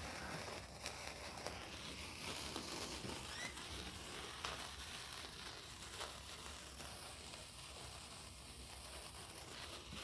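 A lit hand-held sparkler burning with a faint, steady fizzing crackle, dotted with a few small ticks.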